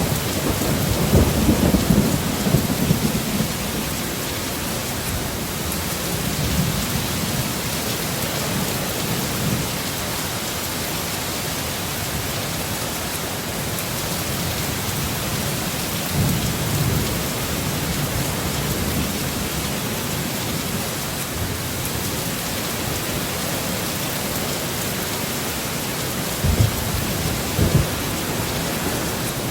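Steady heavy rain with low rumbles of thunder: a long rumble in the first few seconds, another about halfway through, and two short ones near the end.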